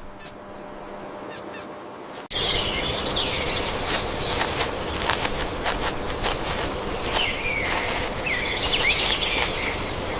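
A few short, high squeaks over quiet background, then a sudden cut about two seconds in to louder outdoor ambience full of birds chirping, with scattered clicks.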